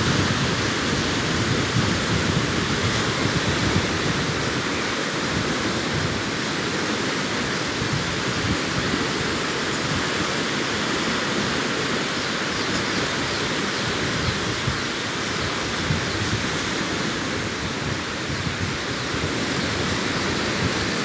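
Sea surf washing on a beach: a steady rush of breaking waves with no single wave standing out.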